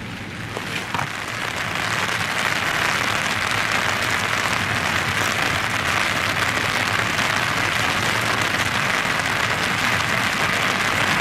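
Steady rain heard from inside a car, growing louder about two seconds in.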